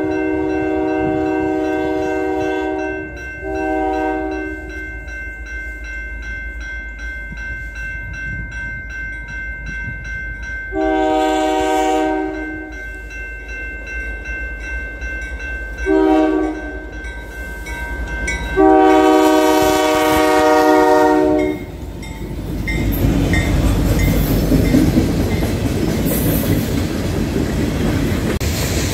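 Freight train's diesel locomotive sounding its multi-chime air horn as it approaches: a long blast, a short one, a long one, a short one and a final long blast ending a little past 21 seconds. Then the locomotives and cars pass close by, a loud rumble with the wheels clattering over the rail joints.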